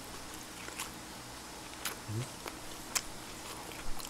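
Faint eating sounds: a few sharp mouth clicks or lip smacks about once a second, with a short low grunt about two seconds in.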